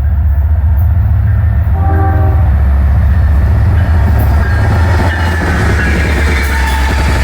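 Diesel locomotive of a CN local freight train passing close, its engine giving a loud, steady low rumble, with a brief horn-like tone about two seconds in.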